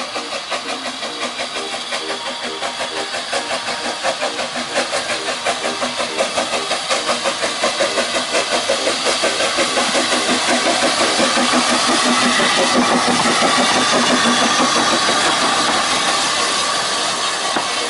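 Steam locomotive pulling away, its exhaust beats quickening and growing louder until they run together into a steady rush.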